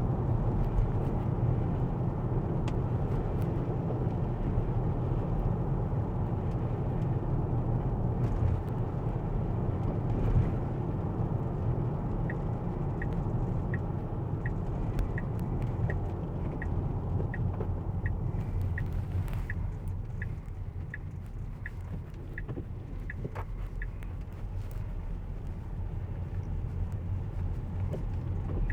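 Steady road and tyre rumble heard inside a Tesla's cabin as it drives on wet roads. About a third of the way in, an even ticking of about two clicks a second starts and runs for roughly twelve seconds, like the car's turn-signal indicator.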